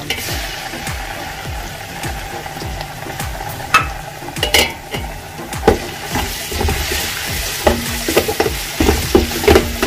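Ginger paste sizzling as it fries in hot oil with whole spices and mint, stirred with a spoon that knocks sharply against the pot a few times.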